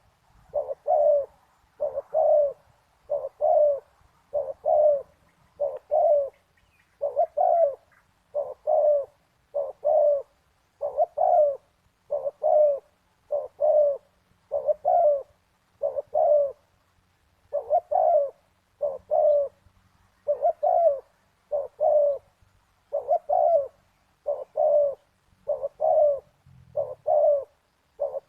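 Spotted dove cooing over and over: short doubled coos repeating in an even rhythm about every second and a bit, without a break.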